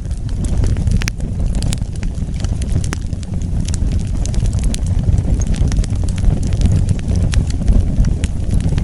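Wood fire burning, with a steady low rumble of flames under frequent, irregular sharp crackles and pops.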